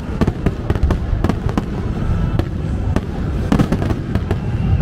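Fireworks going off: an irregular string of sharp bangs, some in quick clusters, over a continuous low rumble.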